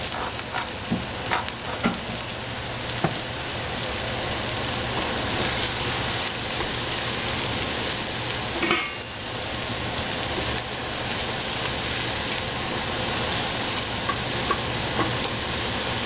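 Food frying in a hot pan with a steady sizzle, stirred with a utensil that clicks against the pan a few times in the first few seconds.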